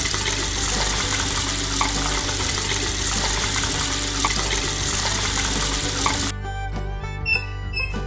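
A steady rushing hiss that cuts off suddenly about six seconds in, over background music.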